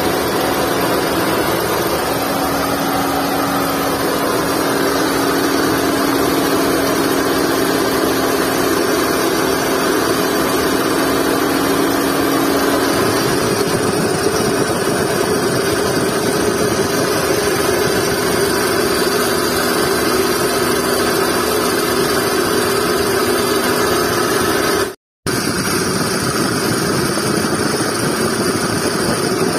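Skoda Fabia petrol engine idling, heard close to its running accessory belt drive, with a steady tone in the noise that the owner puts down to the V-belt and a worn tensioner pulley bearing. The tone shifts higher about halfway through, and the sound drops out for a moment near the end.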